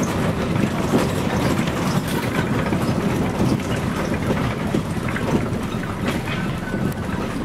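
Scania CN113CLL city bus under way, heard from inside: the Scania DSC 11 diesel running steadily, with road rumble and scattered small rattles from the body.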